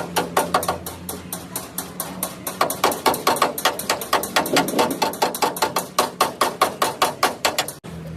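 Rapid, even hammer strikes on metal, about five a second, over a steady low hum; the hammering cuts off near the end.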